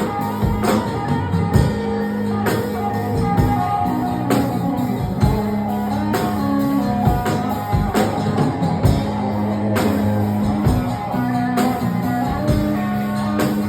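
Live band playing an instrumental break of a rock song, guitar to the fore over a steady beat.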